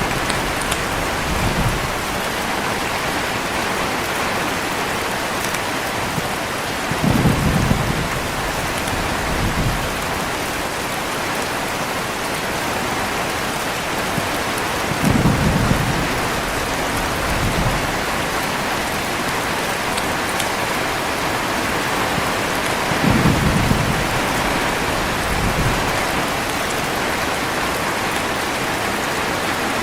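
Heavy, steady rain with low thunder rumbling. The thunder repeats about every eight seconds: a short rumble followed by a softer one about two seconds later.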